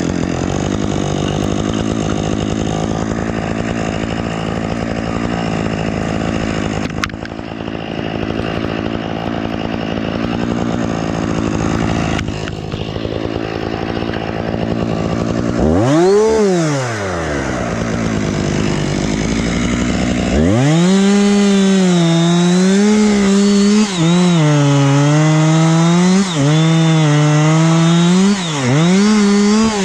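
Husqvarna two-stroke chainsaw idling steadily, blipped once about halfway through, then run at high speed for the last third, its pitch dipping again and again as the chain bogs in the cut.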